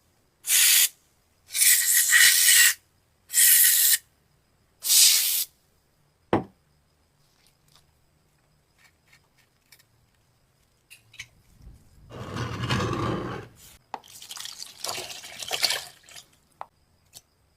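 Four short bursts of hissing spray, each under a second long, followed by a single knock about six seconds in, then rustling and scraping handling noises near the end.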